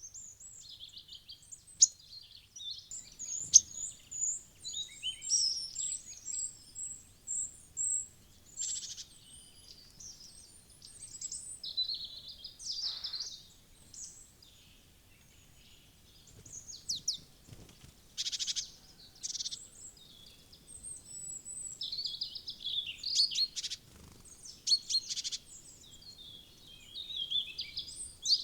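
Small wild birds chirping and calling at a feeder, many short high-pitched chirps and trills in quick runs, with a few sharp clicks.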